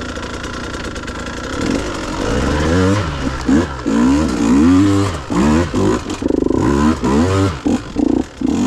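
Dirt bike engine running steadily, then revved hard from about two seconds in, its pitch rising and falling again and again with quick throttle blips near the end, as the rider works the bike over a trail obstacle.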